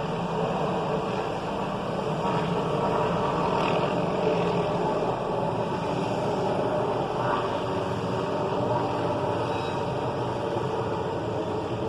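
Helicopter running steadily, its engine and rotor making a continuous mechanical drone with steady tones.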